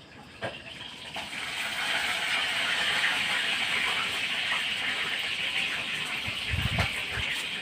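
Steady hiss of pressurised gas rushing from a line, building over the first couple of seconds and then holding. A couple of low thumps come near the end.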